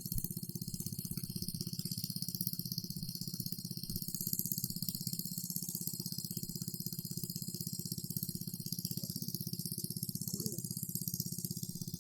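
A small engine running steadily with a fast, even rattle.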